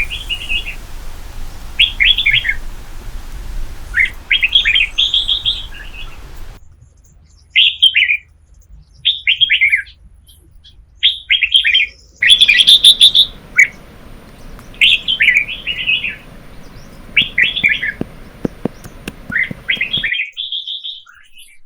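A small bird chirping in short, quick phrases, repeated every second or two.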